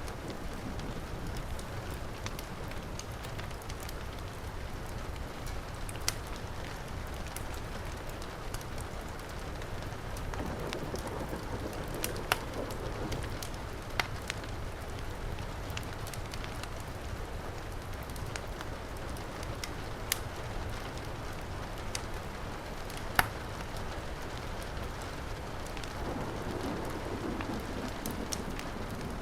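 Heavy rain falling in a steady hiss, mixed with a wood fire crackling, with scattered sharp pops, a few of them louder than the rest.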